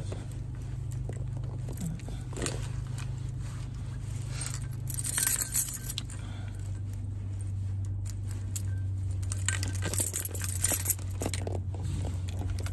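A bunch of keys jingling and clinking as they are put back on a key ring, in two clusters of handling, over a steady low hum from the car.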